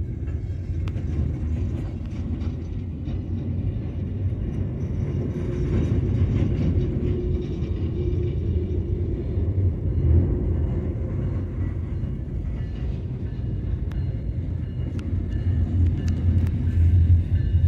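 Freight train of gondola cars rolling slowly past on street-running track: a steady low rumble with scattered clicks and clanks from the wheels and couplers.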